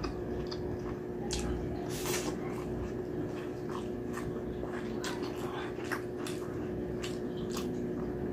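Close-up chewing and wet mouth sounds from eating braised pork belly and rice: irregular smacks and squishes, a few every second. A steady low hum runs underneath.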